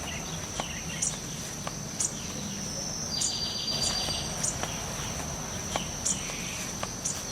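Insects keeping up a steady, high-pitched drone, with a brief rapid trill about three seconds in. Sharp knocks or clicks come irregularly, roughly once a second.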